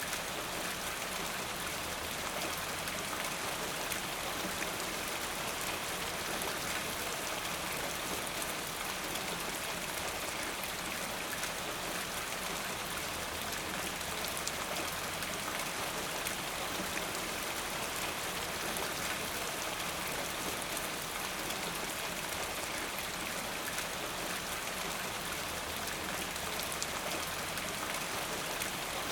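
Steady rainfall, a dense even hiss of drops with fine pattering on a surface.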